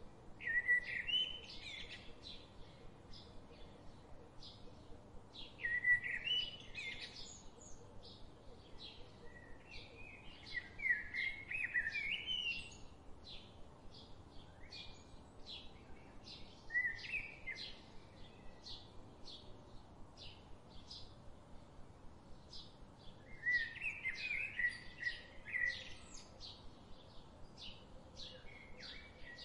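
Forest birds singing: a warbling phrase of quick rising and falling notes comes every few seconds, over a steady run of short high chirps about twice a second.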